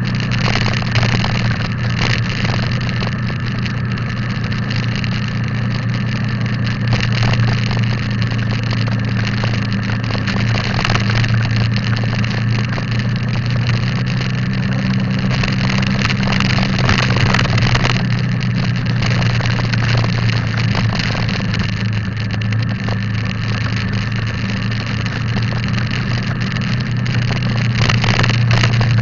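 Motorcycle engine running at a steady, even speed while riding, with constant road and wind noise.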